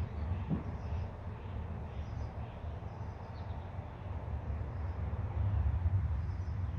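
Deep rolling thunder rumbling low and uneven, easing a little and then swelling again near the end, with faint high chirps in the background.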